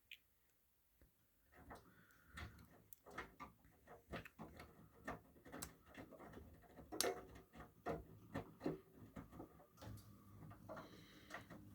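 Miele W1 front-loading washing machine running a QuickPowerWash cycle: irregular clicks and knocks as the load tumbles in the drum, then a steady low motor hum starts near the end.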